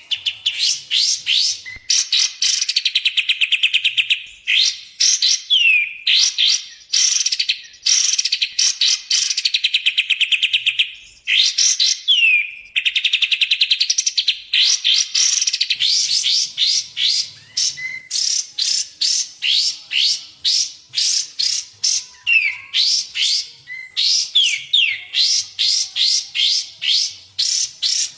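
Kapas tembak and cucak jenggot songbird song from a masteran training track: runs of rapid repeated chirping notes and sharp downward-slurred whistles, in phrases broken by short pauses.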